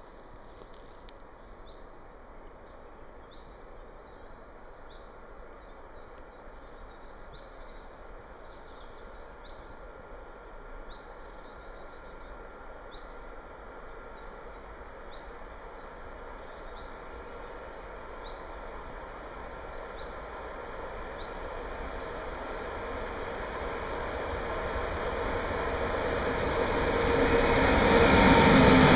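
Class 189 electric locomotive hauling a container train approaches on the rails, its running noise growing steadily louder until it passes close near the end. Birds chirp and sing over it through the first part.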